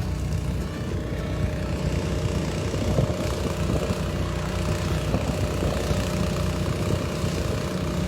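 Vehicle engines idling: a steady, low engine hum.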